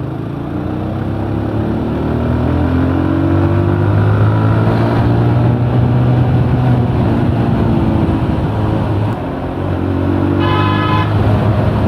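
TVS Apache RTR motorcycle engine running under way, its note slowly rising as it accelerates, with a short drop about nine seconds in. A vehicle horn honks briefly near the end.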